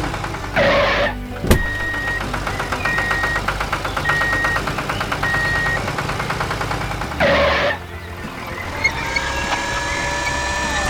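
A vehicle engine hums steadily under background music. Four short, evenly spaced beeps like a reversing alarm sound in the first half. There is a sharp click about a second and a half in, two short noisy bursts, and near the end a rising drawn-out tone.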